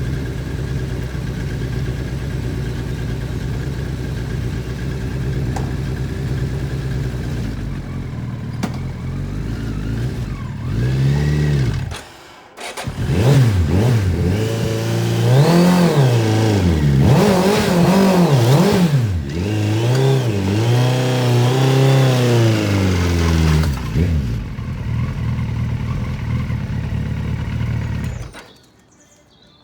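Engine idling steadily, then revved hard several times, the pitch climbing and falling with each blip, before settling back to a steady run and cutting off suddenly near the end.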